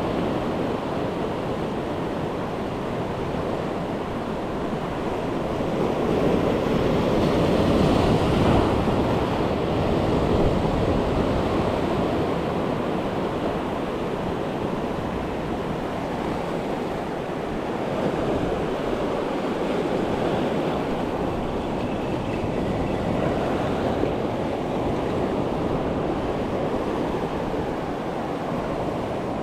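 Ocean waves washing against the shoreline, a continuous surf wash that swells about a quarter of the way in and again past the middle, with wind buffeting the microphone.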